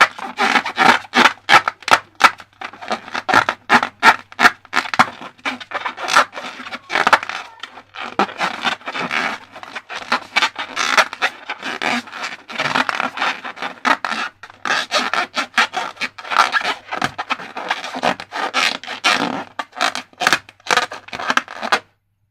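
Balloons and slime being worked by hand: rapid, irregular scraping and rubbing strokes with sharp clicks, which stop abruptly near the end.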